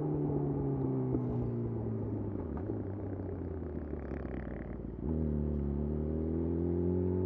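Yamaha YZF-R6 inline-four through a de-catted Akrapovic slip-on exhaust, under way: the revs fall as the throttle closes, the engine runs unevenly and quieter for a couple of seconds off the throttle, then the throttle opens sharply about five seconds in and the revs climb steadily.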